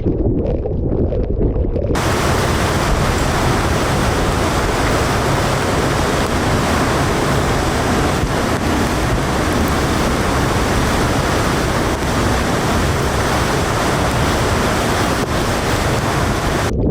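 Typhoon eyewall wind buffeting the microphone as a low rumble; about two seconds in it switches to a loud, even hiss of wind-driven torrential rain and spray, which cuts off abruptly just before the end.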